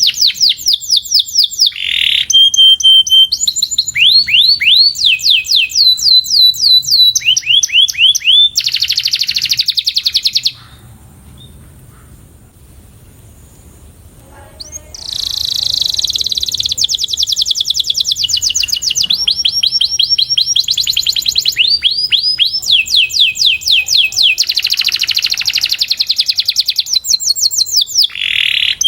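Canary singing rapid trills of repeated falling notes, switching from one trill to another every second or two. It breaks off for about four seconds about a third of the way in, then resumes.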